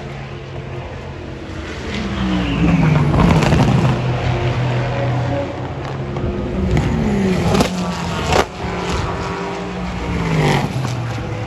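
Several race cars going by at speed one after another, each engine note falling in pitch as it passes, with two sharp cracks a little over halfway through.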